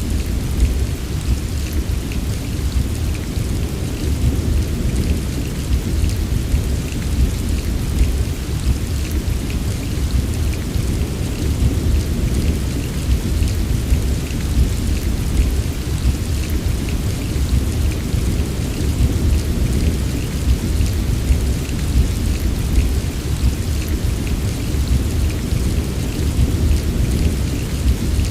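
Heavy rain falling steadily, with a constant deep rumble underneath and a fine patter of drops on top.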